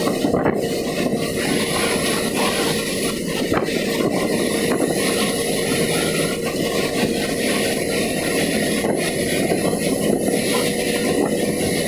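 Truck running steadily on the road: continuous engine and road noise with a faint steady whine.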